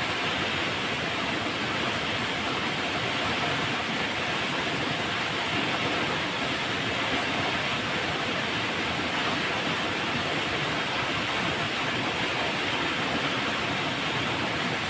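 Flowing river: a steady, even rush of running water with no breaks or changes.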